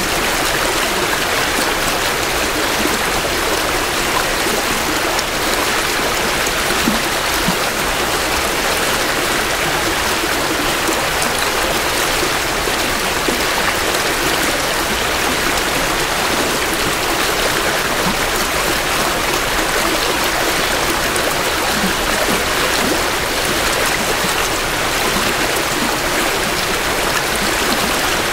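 Spring runoff in a small meandering creek flowing and burbling over stones, a steady rush of water recorded close to the water's edge.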